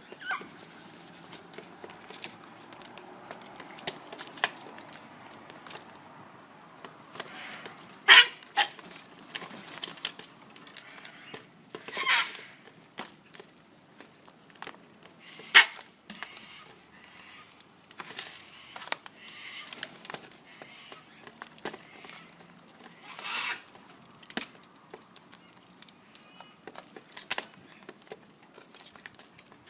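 A yellow-crested cockatoo eating, its beak cracking and tearing at food in a scatter of clicks and crinkling noises, with a few louder short bursts spread through.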